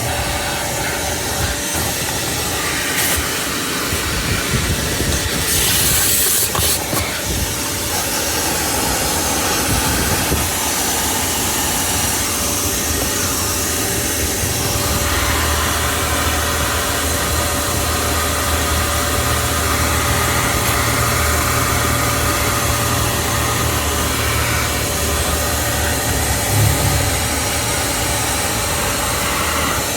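Vacuum cleaner running steadily, with a brief louder hiss about six seconds in.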